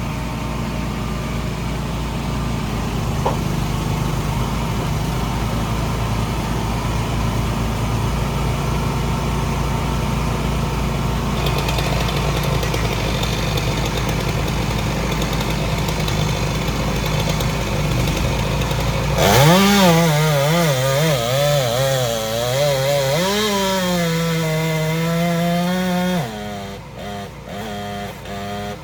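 An engine running steadily. About two-thirds of the way through it revs up, its pitch rising and falling unevenly for several seconds, then drops back lower and runs more unevenly near the end.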